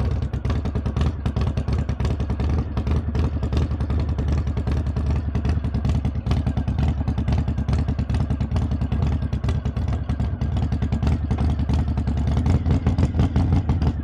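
Harley-Davidson V-twin engine running at low revs, its exhaust pulsing steadily, growing a little louder near the end.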